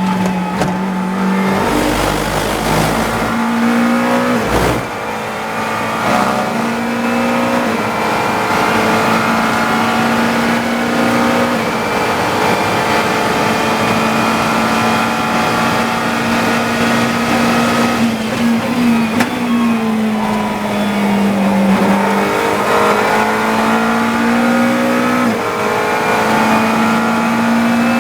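GT3 race car engine heard from the cockpit, held at high revs through gears, its note stepping with each shift and dipping then climbing again about twenty seconds in. Two short low thuds come about two and four and a half seconds in.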